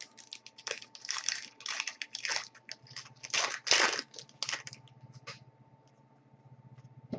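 Trading cards being handled: a run of short, scratchy rustles as cards slide against one another, dying away after about five seconds.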